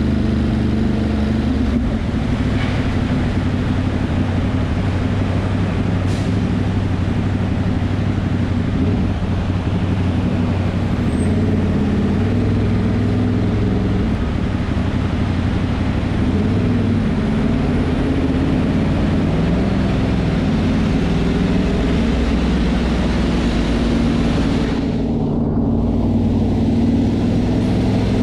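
Ducati Monster's V-twin engine running under way, its pitch rising and falling with the throttle, over steady wind and road noise.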